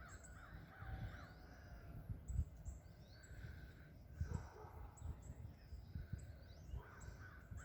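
Faint outdoor ambience: small birds chirping in short, high notes throughout, with a distant voice yelling a few times, a neighbour calling a dog home, over a low rumble of wind or handling noise.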